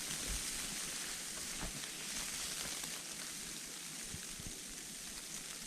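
Snow falling on a tent, heard from inside: a steady fine hiss with occasional faint ticks.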